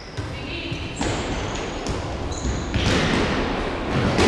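Futsal ball being kicked and bouncing on a sports-hall floor during play, a few sharp thuds, with a louder wash of noise building near the end.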